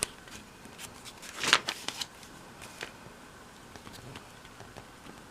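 Paper pages of an old magazine being handled and turned: soft rustles and small clicks, with a louder rustle about a second and a half in.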